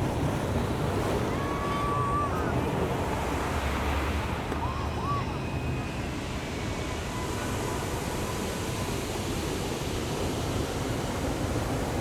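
Ocean surf breaking and washing on the beach, a steady rushing wash, with a few faint short high calls heard over it.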